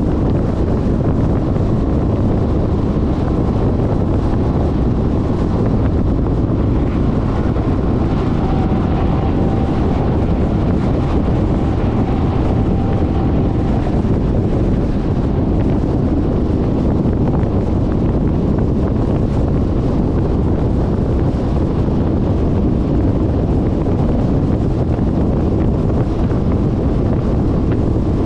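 Steady wind buffeting on the GoPro microphone of a moving Suzuki Burgman 400 scooter, with the scooter's engine and road noise underneath.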